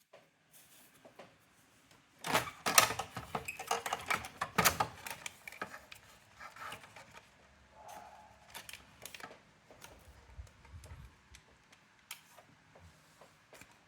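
Clicking and clattering of hard plastic and metal parts of a Brother AX-425 electronic typewriter being handled during disassembly. A dense run of sharp clacks comes about two to five seconds in, followed by scattered lighter clicks.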